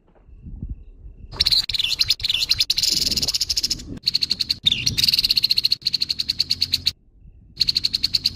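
Grey-headed babbler giving its harsh, rough call: rapid rattling trains of fast clicking notes in three long bursts.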